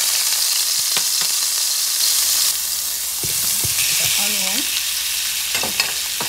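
Minced garlic sizzling in hot oil in a frying pan, a steady hiss. Partway through, sliced onion drops into the pan with a few light knocks, and the sizzle eases a little.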